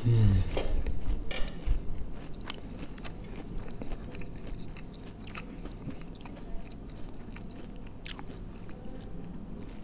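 A person chewing a mouthful of breaded fried food with the mouth closed, with soft crunching. The crunching is busiest in the first few seconds and grows sparser after. A brief falling hum comes at the very start.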